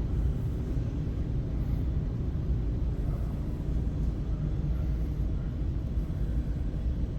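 Steady low rumble of background noise in a large exhibition hall, with no distinct events.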